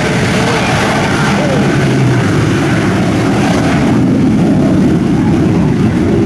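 Shockwave jet truck's three Pratt & Whitney J34 jet engines running, a loud, steady roar that builds slightly over the seconds.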